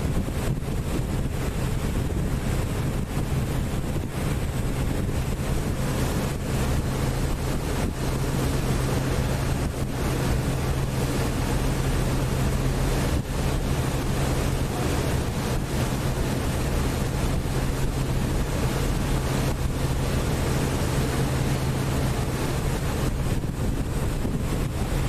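Passenger lake boat under way: its engine gives a steady low hum, with wind buffeting the microphone and the wash of water along the hull.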